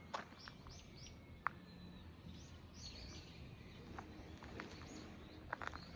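Small birds giving short, high chirps, several in quick succession in the first second and again around two to three seconds in, over a quiet outdoor background. A few sharp taps of footsteps, the loudest about a second and a half in and a cluster near the end.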